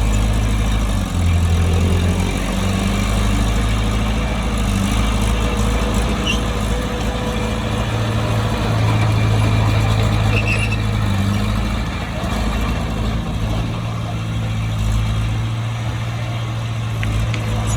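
Heavy diesel engine of earthmoving machinery running steadily, its low hum shifting slightly in pitch and loudness as it works.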